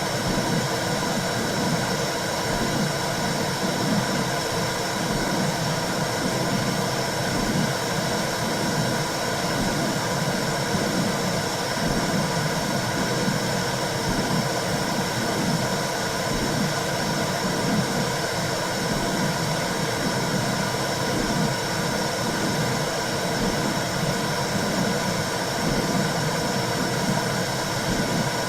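Womb sound for calming a baby: a steady low whooshing rumble, even in level throughout, with faint steady hum tones above it.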